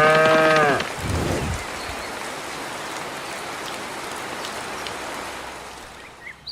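A short pitched call that rises and falls opens it, then a steady rain-like hiss runs for about five seconds and fades out near the end.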